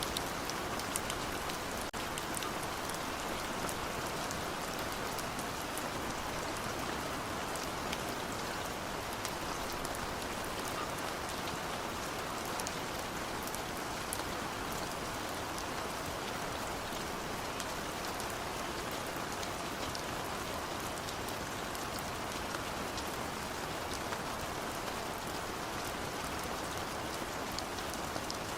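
Steady rain falling on a surface, dense with tiny drop ticks.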